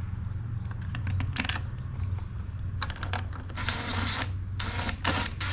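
Scattered tool clicks, then short rattling runs of a ratchet being worked on fasteners, over a steady low hum.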